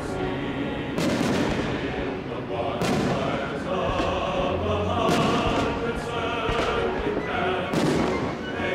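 Fireworks shells bursting, several sharp booms a second or two apart, over music with choral singing.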